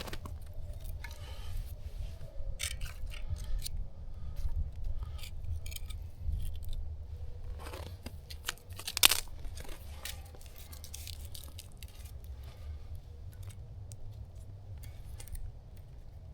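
Campfire being built and tended: scattered crackles, snaps and scrapes of wood being handled and burning, with a sharper snap about nine seconds in, over a steady low rumble.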